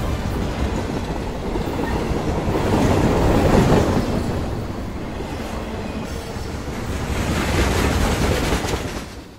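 Passenger train running across a steel truss railway bridge, a dense rumble of wheels on rails. It swells about three and a half seconds in and again near the end, then falls away.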